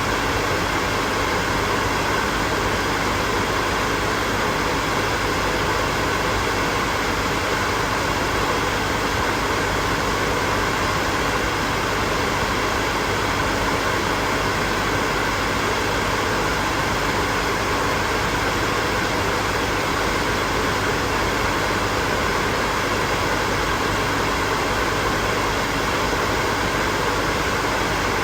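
Electric hair dryer running steadily, a constant rush of blown air with a faint motor hum.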